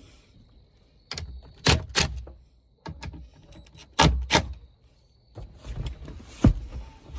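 A run of sharp knocks and clicks, several close together: parts and tools being handled inside a vehicle cabin while fitting an interior dome light. The loudest knock comes near the end.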